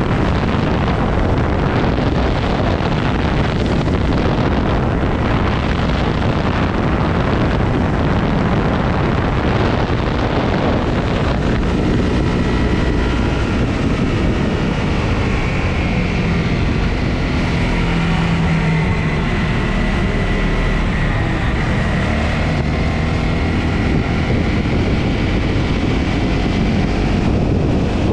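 Honda CRF250's single-cylinder four-stroke engine running while riding, under heavy wind noise on the microphone. From about halfway through, the engine's note comes through more clearly, its pitch rising and falling slightly.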